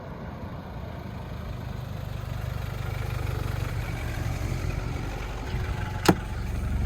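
The 1992 Mitsubishi Pajero's 2.5-litre turbo diesel idling steadily, with a single sharp click about six seconds in.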